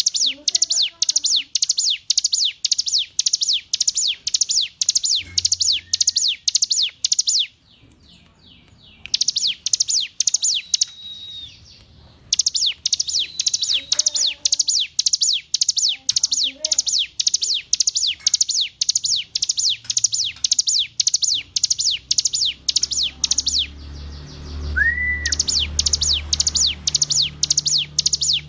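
A ciblek gunung, a mountain prinia, sings long runs of fast, evenly repeated sharp high notes, about four a second. The phrases break off briefly a few times, and a low hum comes up under the song near the end.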